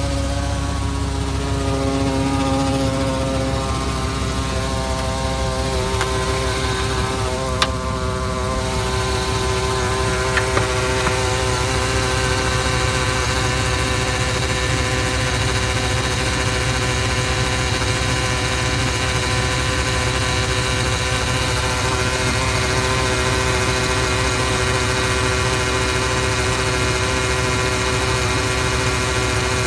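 A 2003 Chevy Silverado 2500HD engine running steadily at idle, with a droning hum and vibration noise. The rotted-out engine mounts let the engine shift, so its vibration carries through the K&N intake where the intake touches the fan shroud. There is one sharp click about seven seconds in.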